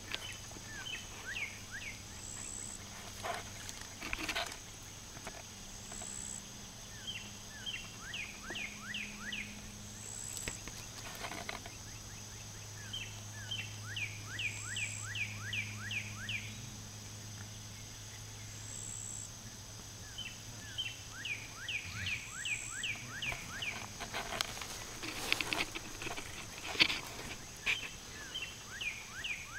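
A bird singing outdoors: runs of about eight to ten quick down-slurred chirps, repeated every few seconds, over a steady low hum. A few brief thumps or rustles come near the start, in the middle and near the end.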